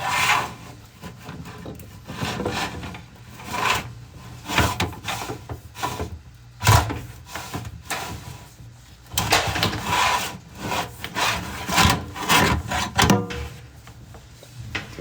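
Inspection camera and its push cable rubbing and scraping along the inside of a rigid dryer vent pipe thick with lint, in irregular bursts of scraping.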